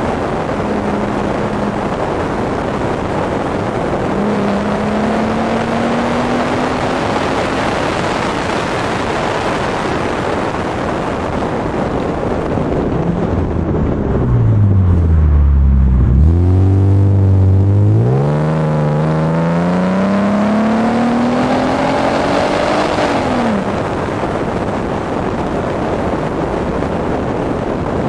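Car exhaust recorded from the boot lid while driving, under heavy wind and road noise. The engine note rises, drops to a low, loud drone about halfway through as the car slows, then climbs steadily for several seconds under acceleration before cutting off near the end as the throttle is lifted.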